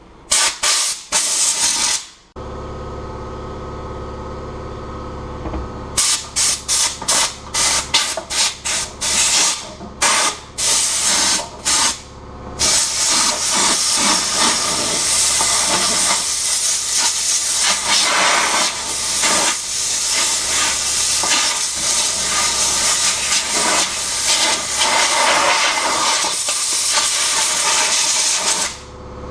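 Compressed-air blowgun blasting dust out of a refrigerator condenser coil: a few short bursts, then a rapid string of short bursts, then one long continuous blast that cuts off near the end.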